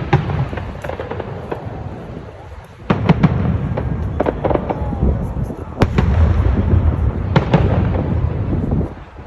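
Display fireworks bursting overhead: a rapid run of bangs and crackles over a low rumble, dropping away briefly at about two seconds before a fresh loud volley about three seconds in and another near six seconds.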